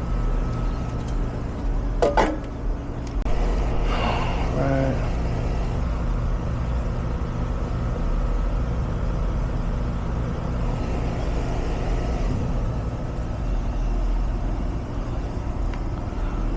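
Central air-conditioner condensing unit running, its compressor and fan making a steady hum, on a system overcharged with refrigerant and running at high head pressure.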